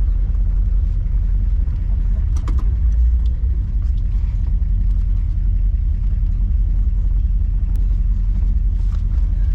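Car engine running at low speed with a steady low rumble while the car is slowly manoeuvred into a parking spot, with a couple of light clicks about two and a half seconds in.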